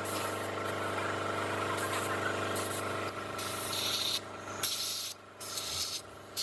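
A steady machine hum, then from about four seconds in, several short bursts of hissing spray with brief gaps between them.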